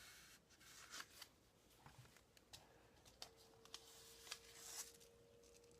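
Faint rustling and small clicks of paper being handled: pages and tucked-in pieces of a handmade paper journal. A faint steady hum joins about three seconds in.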